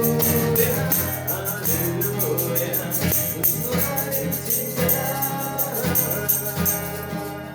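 Christian worship music: instruments playing sustained chords under wavering melodic voices, with a steady rhythm of high jingling percussion.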